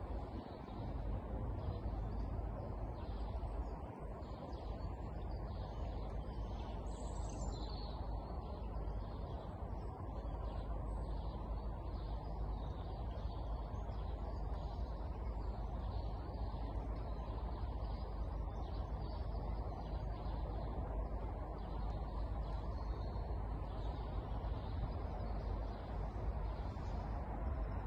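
Small birds chirping and calling over and over outdoors, over a steady low rumble of background noise.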